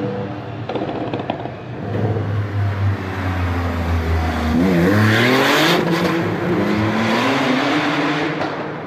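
Car engine running and revving as an intro sound effect: a steady engine note, then about halfway through the pitch dips and climbs again as it accelerates, with a louder rush, before it fades out near the end.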